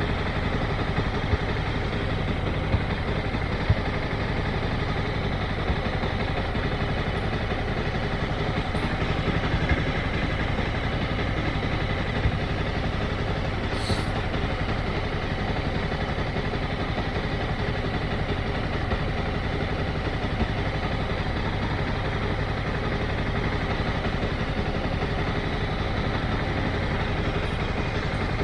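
Motorcycle engine running steadily at low revs, with no revving up or down.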